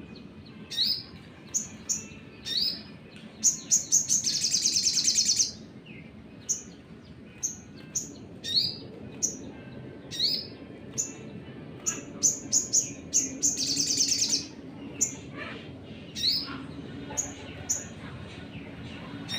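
A sogon singing hard: sharp, high rising chirps repeated every half second or so, broken twice by a long rapid trill of a second or two, the 'nembak' burst that keepers use to provoke other birds.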